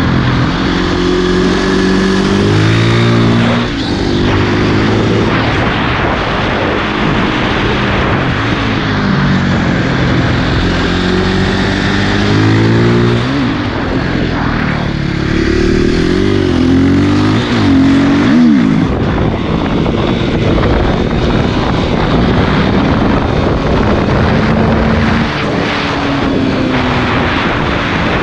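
Single-cylinder four-stroke engine of a KTM 450 EXC supermoto with an Akrapovic exhaust, heard while riding: it revs up through the gears in repeated climbing steps with short drops at each shift, with quick rev swings up and down partway through, over a constant rush of wind noise.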